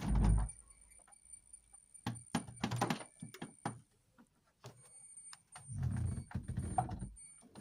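Irregular knocks and clattering handling noise, with heavier low thumps about two seconds in and again near the end, over a faint steady high-pitched whine.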